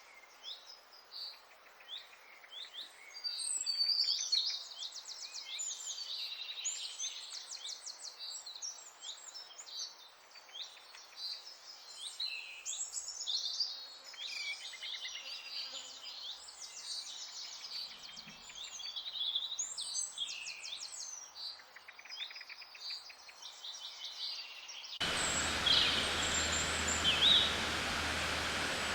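Nature-sounds background of many birds chirping and trilling over one another, with quieter gaps. About 25 seconds in it cuts suddenly to a steady hiss with a low hum underneath, a few chirps still heard over it.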